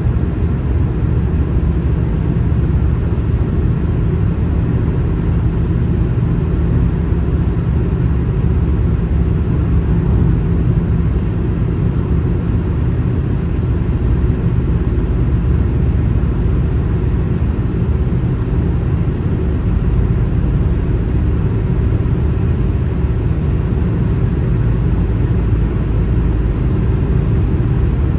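Car travelling at highway speed: a steady, unbroken low rumble of tyres and road noise.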